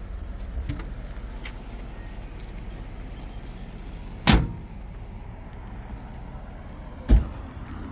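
Two heavy thuds about three seconds apart, the first a little past the middle, the second near the end, over a steady low rumble.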